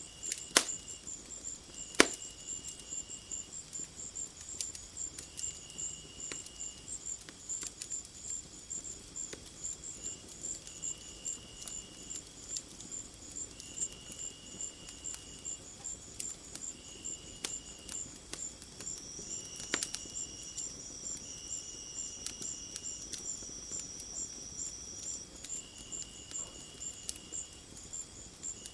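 Insects chirping: a steady high, rapidly pulsing chirp with a lower trill repeating every second or two, and a thin high whistle for several seconds past the middle. Sharp crackles and pops from a wood fire throughout, the two loudest near the start.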